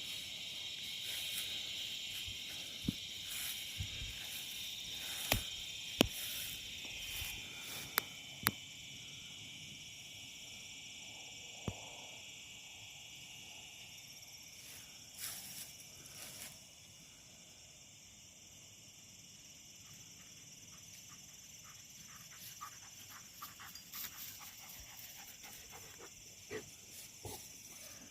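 A steady chorus of insects singing in high continuous bands, with scattered crunches and snaps of footsteps on dry leaves and twigs.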